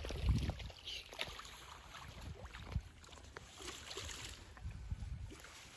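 Pond water sloshing and splashing as a fish-harvest net is hauled through it, with scattered small splashes and knocks over a low rumble.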